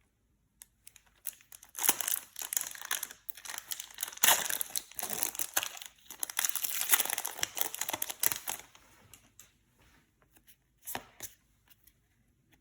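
Foil Yu-Gi-Oh booster pack wrapper being torn open and crinkled by hand. Dense crackling begins about two seconds in and runs for about six seconds, then thins to a few small rustles with one short burst near the end.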